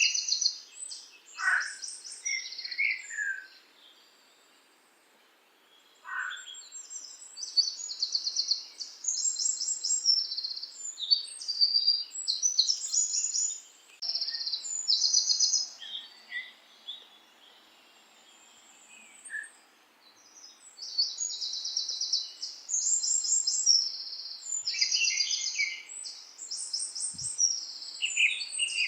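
Several songbirds singing, with many short, fast trilled chirps overlapping and a couple of falling whistles near the start. The song pauses briefly twice, once a few seconds in and again just past the middle.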